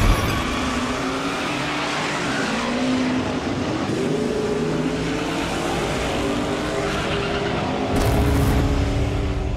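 Car engines revving hard, their pitch rising and falling, over loud tire and road noise, with a louder surge of low rumble about eight seconds in.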